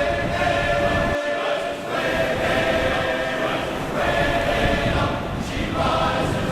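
A choir singing long held chords that change every second or two, with a steady noisy rush underneath.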